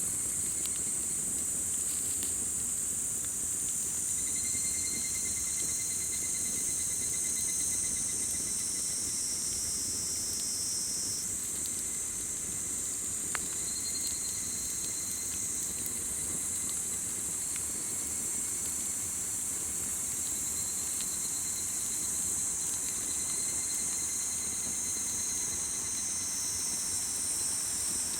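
Dense, steady chorus of high-pitched insects calling at dusk, with one insect's lower pulsed trill coming and going, and a single sharp pop from the campfire about 13 seconds in.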